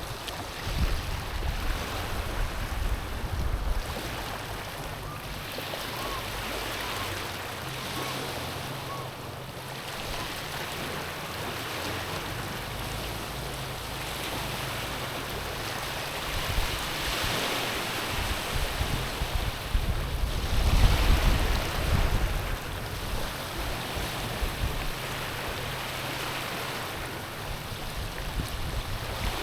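Small sea waves washing in over stones and pebbles on a rocky beach, a steady wash that swells louder twice, once near the start and again past the middle.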